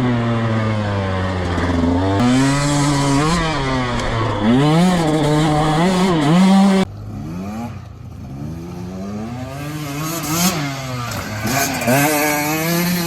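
Dirt bike engine revving up and down as it is ridden, the pitch rising and falling every second or so. About seven seconds in, the sound cuts abruptly to a quieter dirt bike engine, still revving up and down.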